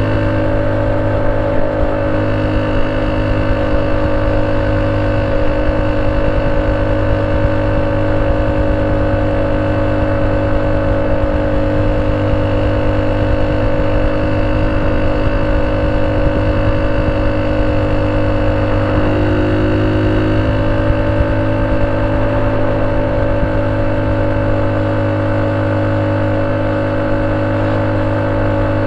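Honda C70's 70cc single-cylinder four-stroke engine running at a steady, unchanging speed through a banana-type (pisang) aftermarket exhaust, with a strong low hum.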